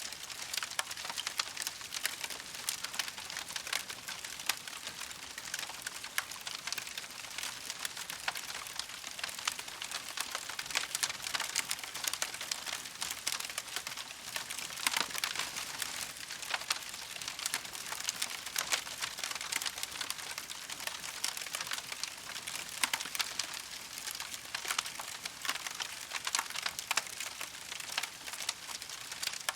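Wood campfire crackling steadily: a dense, continuous run of small pops and snaps over a soft hiss.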